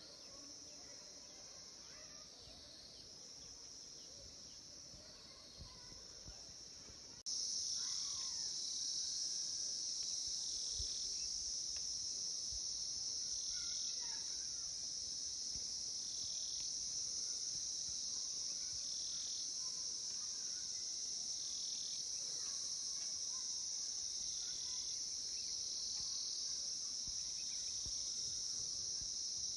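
A dense chorus of insects: a steady high-pitched buzzing with a slow regular swell every few seconds. It suddenly becomes much louder about seven seconds in.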